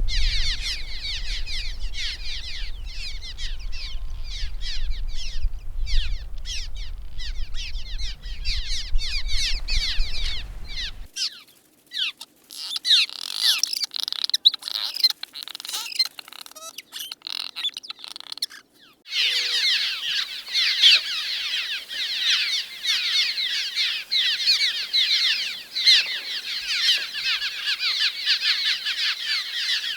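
Swallows twittering: dense streams of rapid, high chirps in three cut-together recordings, the first with a low rumble under it that stops suddenly at the cut.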